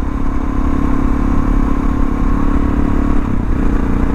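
Suzuki DR650's single-cylinder four-stroke "thumper" engine running steadily while riding along, purring along at an even pace. The engine note wavers briefly a little past three seconds in.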